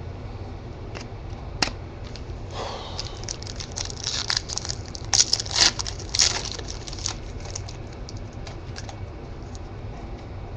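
Panini Select football trading cards being handled and shuffled: a run of crisp clicks and crackly rustling, busiest in the middle and thinning out toward the end.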